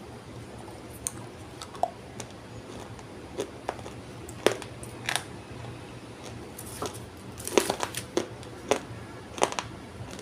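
Dry multani mitti (fuller's earth clay) being bitten and chewed: irregular sharp crunches and cracks, coming more thickly in the second half.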